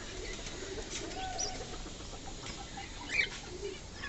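Mixed calls of caged birds: soft low clucking and cooing, with short high chirps about a second in and a louder pair about three seconds in.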